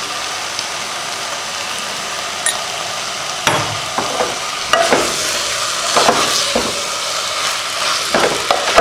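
Chicken pieces in masala sizzling steadily in a pot; from about three and a half seconds in, a wooden spatula stirs and turns them, with irregular scraping strokes against the pot.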